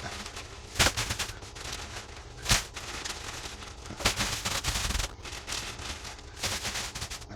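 Irregular knocks and thumps over rustling and scraping, as of boards and wood shavings being handled in a wooden chicken coop; three knocks stand out, about a second in, at two and a half seconds and at four seconds.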